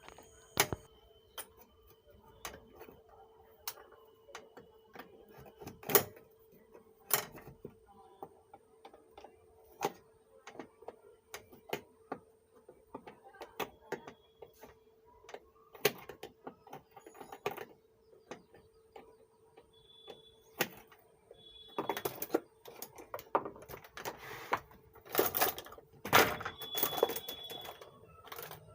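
Scattered clicks and knocks of hands and tools working on an opened amplifier's chassis and parts, coming thickest near the end, over a faint steady hum.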